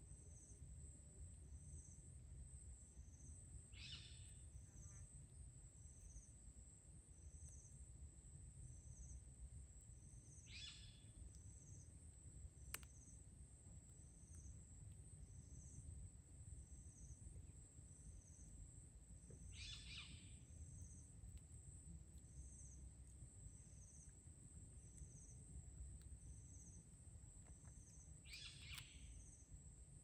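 Near silence with a faint low rumble, broken four times by a brief, faint bird call that falls in pitch. A faint high pulse repeats about every second and a half throughout.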